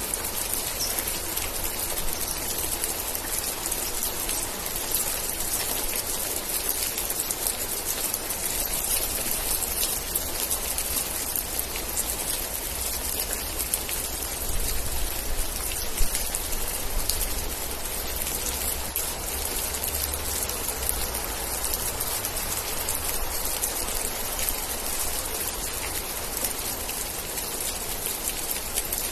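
Steady rain with many individual drops ticking close by, over a low rumble; one sharper drop strike about halfway through.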